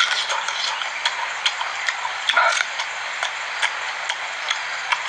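Close-up eating sounds: wet smacking and chewing clicks, irregular at about two or three a second, over a steady hiss.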